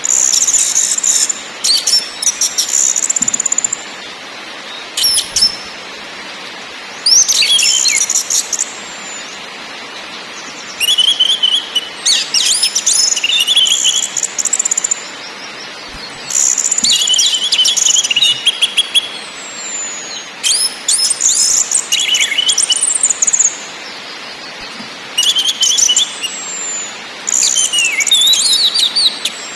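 Orange-headed thrush singing: a run of short, fast, high phrases, each lasting one to two seconds, with brief pauses between them, over a steady faint hiss.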